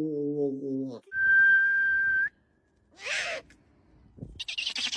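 A single steady whistled note held for about a second, then a short raspy call and a fast run of rapid clicking pulses near the end.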